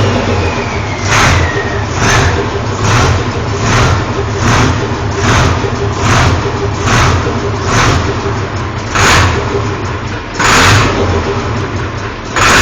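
Turbocharged Cargo 380 diesel in a Major tractor-puller running with short, sharp throttle blips, about one a second. A high turbo whistle winds down and fades in the first two seconds.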